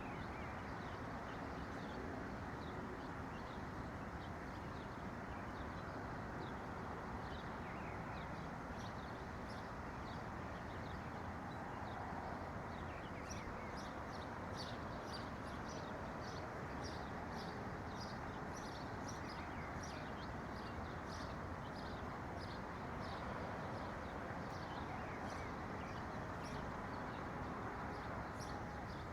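Small birds chirping in short, quick high notes, thickest through the middle and again near the end, over a steady low hiss of background noise.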